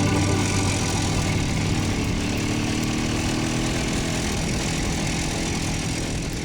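Voskhod motorcycle's single-cylinder two-stroke engine running steadily, under the tail of a held musical chord that fades out over the first few seconds. The whole sound fades down near the end.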